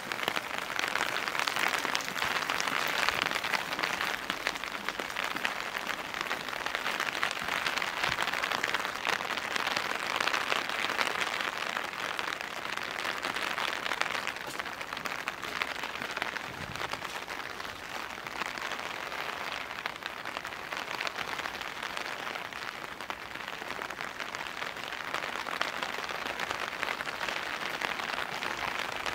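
Steady rain falling: a continuous hiss made of many fine drop ticks, easing slightly in the second half.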